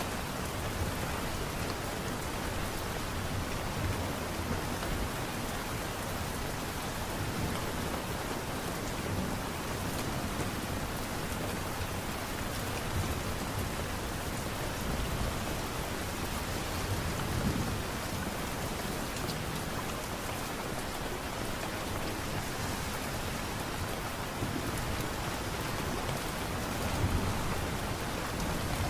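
Light rain falling steadily, an even hiss with soft low swells now and then.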